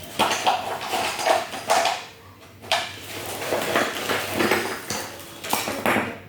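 Map puzzle pieces and their packaging being handled: rustling and light clattering in several bursts, with short pauses between.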